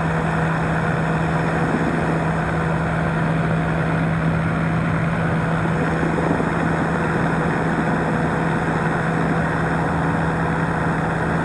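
Powered parachute's engine and propeller running at a steady cruise setting in flight, a constant drone that holds one pitch.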